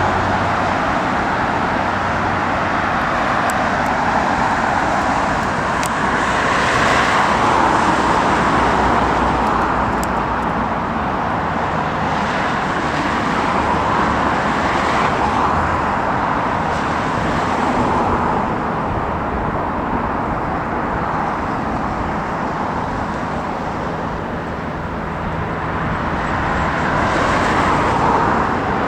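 Steady engine noise from a four-engine Airbus A380 airliner, mixed with wind, rising and falling in slow swells and loudest at the very start and near the end.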